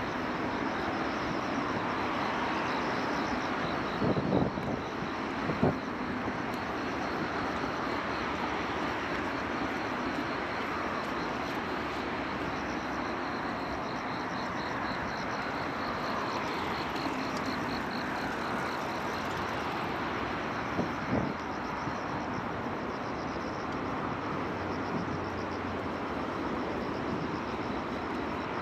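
Steady outdoor city hum of distant traffic, with three short knocks, two near the start and one about two-thirds of the way in.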